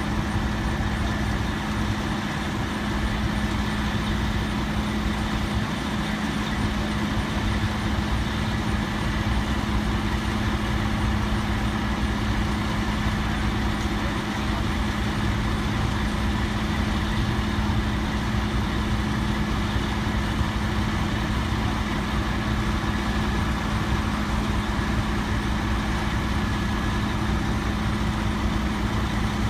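A truck engine running steadily at idle, a constant drone with an even hum.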